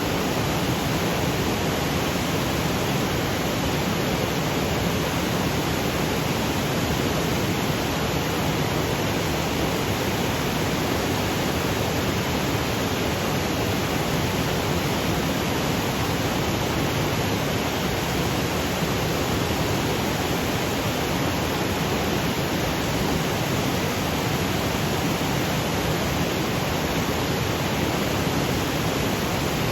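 Waterfall cascading over granite boulders: a steady, even rush of falling water that does not change.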